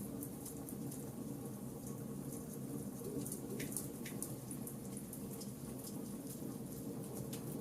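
Burning charcoal campfire crackling: many small, irregular pops and ticks over a steady low background noise.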